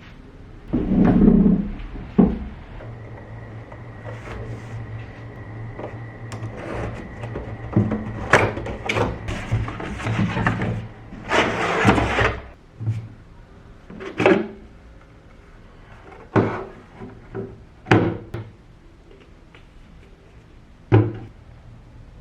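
Objects being handled indoors: a string of irregular knocks and clatters, like cupboards, drawers and things being set down, with a low steady hum running for several seconds in the first half.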